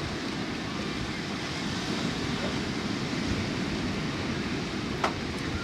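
Steady wash of ocean surf with wind rumbling on the microphone, and a single short click about five seconds in.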